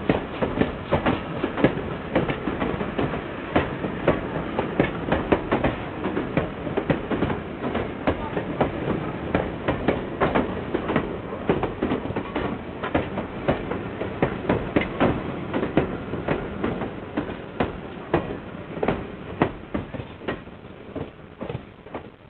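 A train on the Vivarais line rolling along, its wheels clicking and clattering over the rail joints, with the sound fading down near the end.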